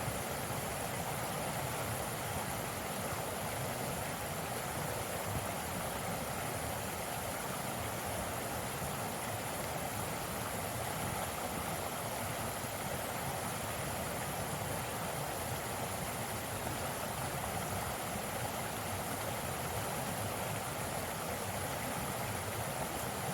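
Mountain stream flowing, a steady rush of water with no birdsong.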